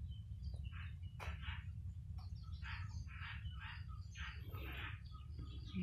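Small birds chirping in a string of short calls, coming thickest about halfway through, over a steady low rumble.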